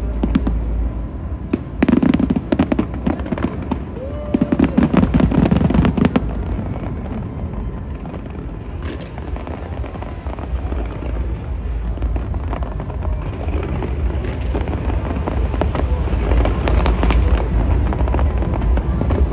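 Fireworks bursting in salvos of sharp bangs and crackling over a continuous low rumble. There are heavy clusters about two and five seconds in, a calmer stretch in the middle, and crackling building again near the end.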